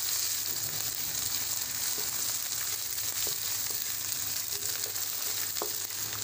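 Browned onions and ginger-garlic paste sizzling steadily in hot oil in a wok, stirred with a wooden spatula that knocks lightly against the pan a few times.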